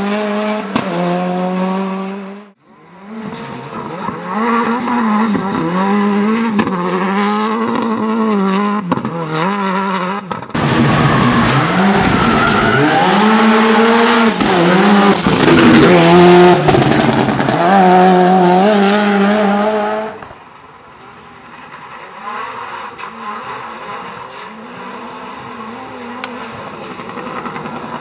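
Turbocharged Toyota Corolla rally car engine revving hard, its pitch climbing and dropping repeatedly through gear changes. The loudest stretch, close by, runs from about a third of the way in to about two thirds, then the car is heard fainter and farther off; the sound jumps abruptly between takes.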